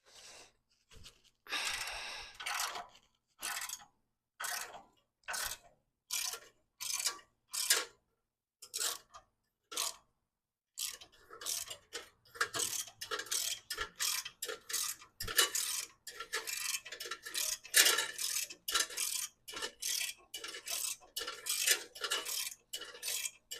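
Socket ratchet clicking as it works a ground bolt loose: short bursts of clicks about once a second at first, then from about halfway faster, almost continuous ratcheting.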